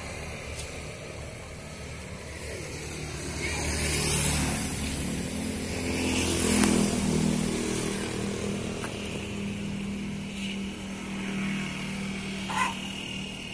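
A motor vehicle engine running, swelling louder about four seconds in and again about six to seven seconds in, with a short sharp sound near the end.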